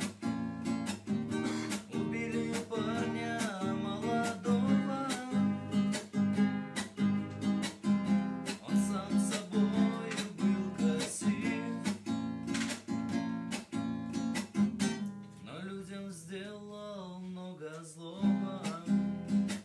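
Acoustic guitar strummed in a steady rhythm to accompany a man singing a slow Russian ballad, his voice coming through in stretches. Toward the end the strumming thins out under a longer held vocal line.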